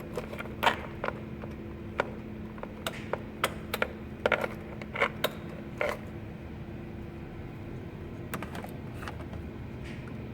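Sharp mechanical clicks and light knocks, a dozen or so over the first six seconds and then fewer, over a steady low hum.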